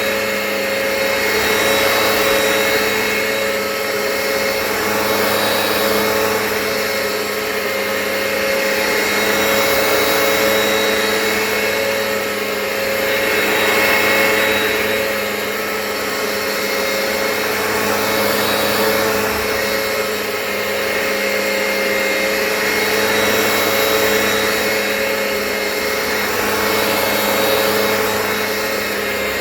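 Hoover Power Path carpet cleaner running, its suction motor and spinning brushes extracting solution from the carpet with a steady whine. The sound swells and eases every few seconds.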